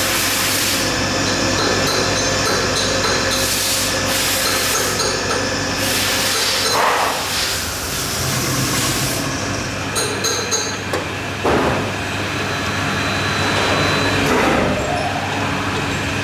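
Factory machinery running with a steady hum, with brief rushes of hiss and a few metal clinks and a sharp knock about ten to twelve seconds in.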